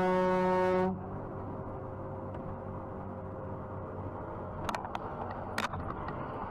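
A car horn held down with one steady tone, cutting off sharply about a second in, followed by quieter steady road noise with a few faint clicks.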